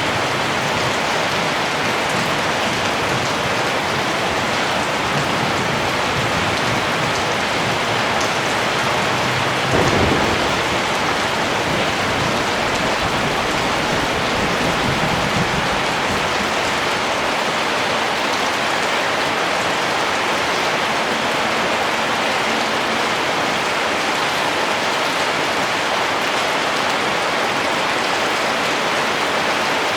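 Steady rain falling, an even hiss throughout. About a third of the way in comes a sudden thunderclap, followed by a low rumble lasting several seconds.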